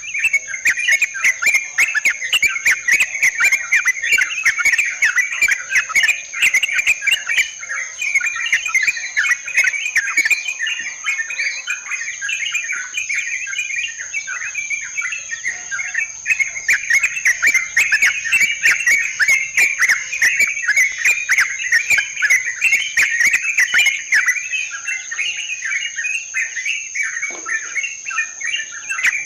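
Yellow-vented bulbuls (trucukan) calling in a dense, continuous chatter of short notes, with a steady high insect buzz underneath.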